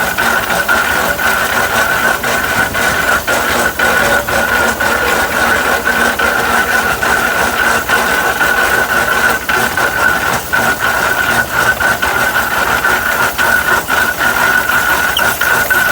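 Half-scale 65 hp Case steam tractor running, with a steady high-pitched tone over the machinery and irregular knocks and rattles throughout.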